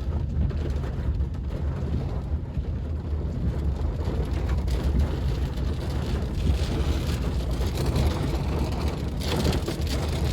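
Thunderstorm with heavy rain: a steady rain hiss over a constant low rumble.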